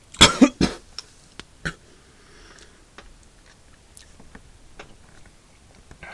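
A person coughing about three times in quick succession, close and loud, followed by a few scattered faint clicks.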